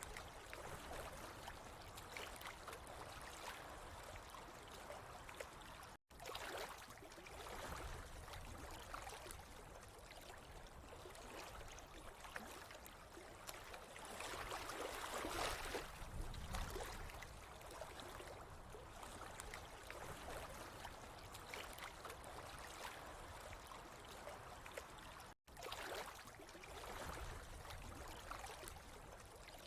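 Running water trickling and gurgling steadily, swelling a little in the middle. The sound cuts out for an instant twice, about six seconds in and near the end.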